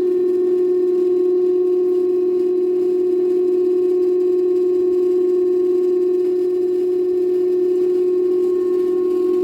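Daewoo direct-drive inverter front-load washing machine spinning with a loud, steady hum at one fixed pitch. It is an abnormal spin noise, not from the bearings: it was traced to a faulty Hall sensor on the motor's stator.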